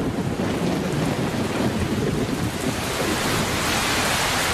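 Heavy tropical rain pouring down with a low rumble of thunder; the rumble fades about three seconds in, leaving the steady hiss of the downpour.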